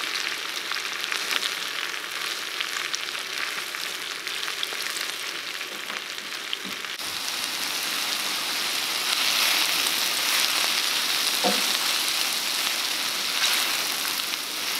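Bacon, mushrooms, onion and garlic sizzling as they sauté in a ceramic non-stick pan, stirred now and then with a slotted spatula. The sizzle is a steady hiss, a little louder in the second half.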